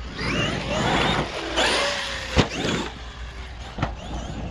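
Traxxas XRT RC truck's brushless electric motor whining up and down in pitch as it accelerates and slows over dirt, with tyre noise. There is one sharp, loud smack about two and a half seconds in, and a smaller knock near the end.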